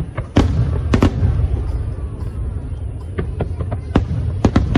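Aerial fireworks going off: a string of sharp bangs, several close together in the first second and a cluster in the second half, over a steady low rumble of ongoing explosions.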